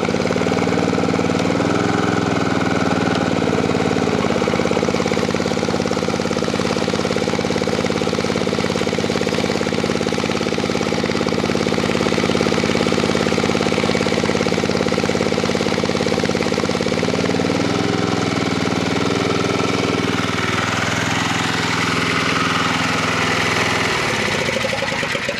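Honda E1500 portable generator's engine running steadily under the load of a 2000-watt electric heater. Its pitch dips and recovers about two seconds in, wavers again later, then falls away as the engine winds down and stops near the end.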